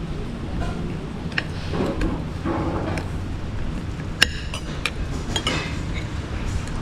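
Cutlery clinking against a plate and dishes at a meal: a handful of light clinks, the sharpest with a short ring about four seconds in, over a steady low rumble.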